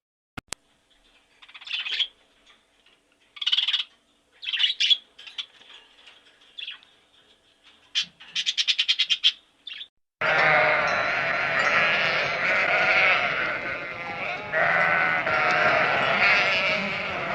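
Short high calls and a rapid stuttering call with quiet between them, then about ten seconds in a whole flock of sheep bleating at once, many voices overlapping.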